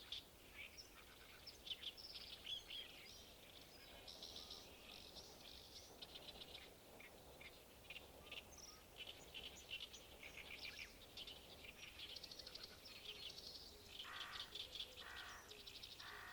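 Songbirds singing faintly in fast, chattering runs of chirps that go on throughout, with a few lower calls near the end.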